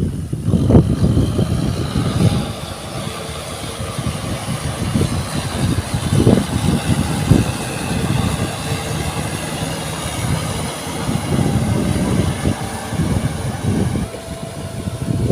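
Tractor engine running while plowing through mud, a dense low rumble that surges unevenly.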